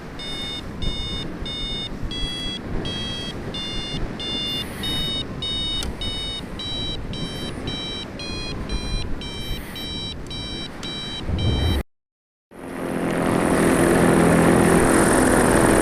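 A flight variometer beeping rapidly, about two short electronic beeps a second that shift a little in pitch, the sound of a climb in lift, over rushing wind noise. After a sudden cut, a Vittorazi Moster 185 paramotor's single-cylinder two-stroke engine runs steadily.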